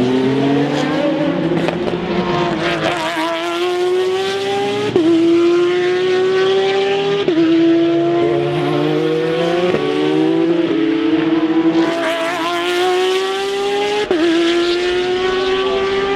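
Race car engine accelerating hard through the gears: the pitch climbs steadily, then drops sharply at each upshift, about five times.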